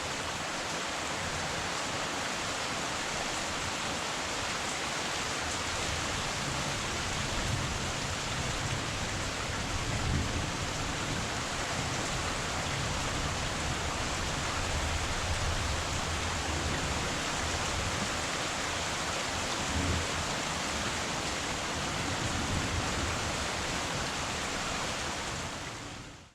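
Heavy rain falling steadily in a dense, even hiss, with a low rumble swelling now and then, strongest about ten and twenty seconds in. It fades out at the very end.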